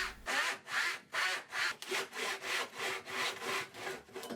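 Tenon saw cutting through thin plywood by hand, a steady run of back-and-forth strokes at about three a second.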